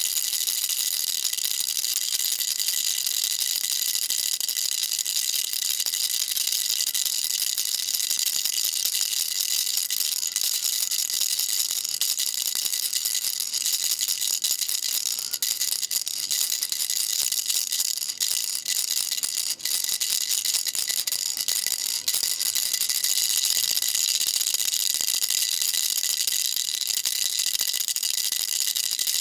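Baby rattle shaken continuously, giving a dense, steady, high-pitched rattle of small beads.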